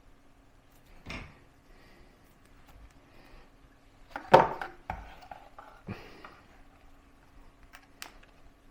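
Handling sounds from working on a drone at a desk: a few scattered knocks and rustles, the loudest about four and a half seconds in followed by a short rustle, and two sharp ticks near the end, over a faint steady hum.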